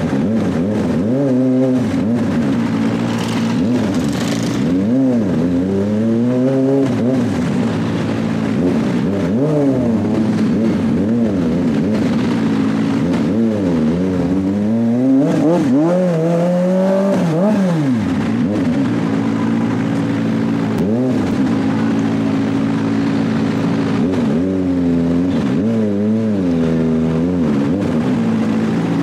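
Kawasaki ZX-25R's 250 cc inline-four engine being revved while the motorcycle is ridden slowly, its pitch sweeping up and falling back again and again with repeated throttle blips.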